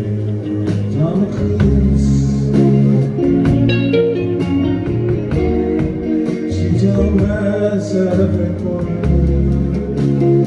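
Live rock band playing: electric guitars and bass over drums, with singing.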